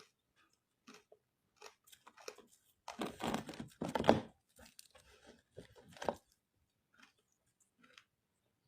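Ice, made with matcha, being bitten and chewed close to the microphone. A few light crunches come first, then a loud, dense crunching starts about three seconds in and lasts over a second. Smaller crunches follow and thin out near the end.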